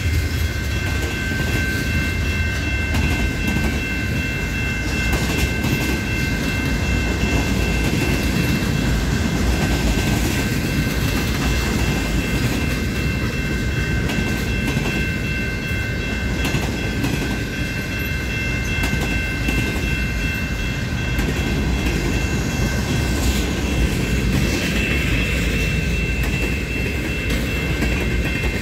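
CN local freight train rolling past, a steady low rumble of wheels on rails with scattered clicks and a few steady high-pitched tones above it.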